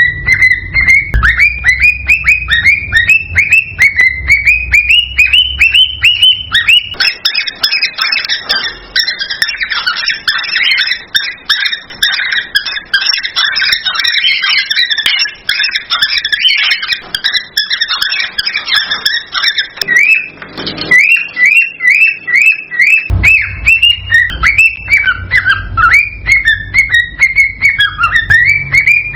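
Cockatiel mating whistles and chirps in quick repeated notes. A denser, busier chatter runs through the middle stretch, and a low rumble lies under the opening and closing parts.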